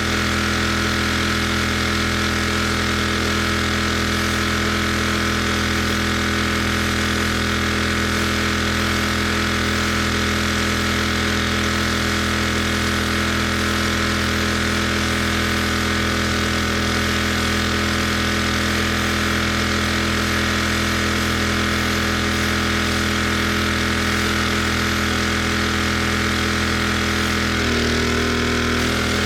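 Gas pressure washer's engine running steadily, its pitch dipping briefly near the end.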